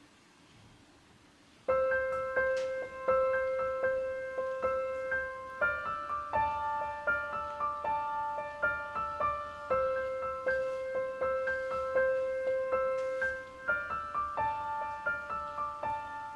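Background piano music begins suddenly about a second and a half in: a gentle, repeating melody of struck notes.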